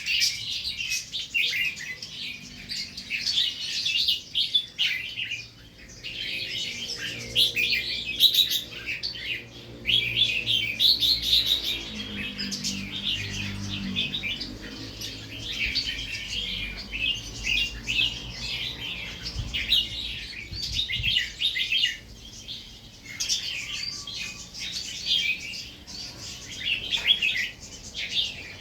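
Red-whiskered bulbuls singing against each other in quick, busy chirping phrases with hardly a pause.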